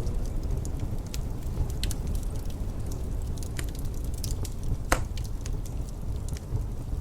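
Wood fire crackling in a fireplace: scattered sharp pops and snaps over a steady low rumble, with one louder pop about five seconds in.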